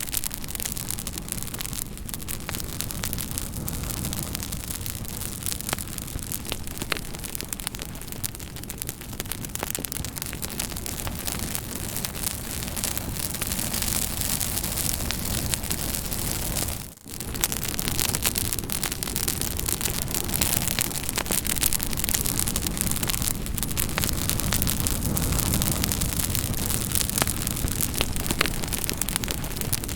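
Campfire crackling: many irregular pops and snaps of burning wood over a steady hiss and low rumble of the flames. The sound dips briefly about seventeen seconds in.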